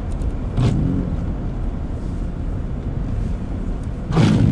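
Steady road and engine rumble heard from inside a car driving on a wet road in freezing rain, with two windshield wiper sweeps, one shortly after the start and a louder one near the end.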